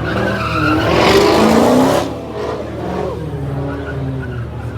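Car engine revving hard while its rear tyres spin and squeal in a burnout, loudest between about one and two seconds in, then easing off.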